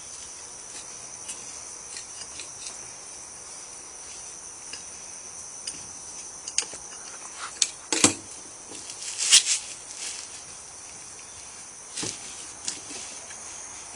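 Crickets chirring steadily at a high pitch, with a few sharp knocks and clunks about eight, nine and a half and twelve seconds in as the jack is moved under the beam.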